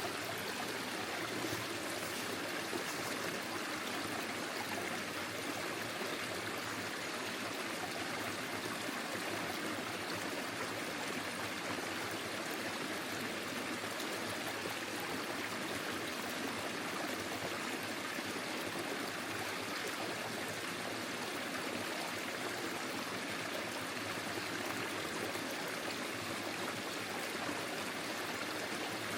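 Forest stream flowing over stones, a steady rush of water with trickling.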